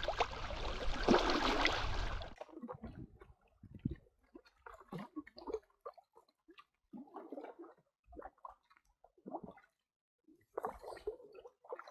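Moving water: a steady rush for about two seconds that cuts off abruptly, followed by faint, scattered gurgles and splashes.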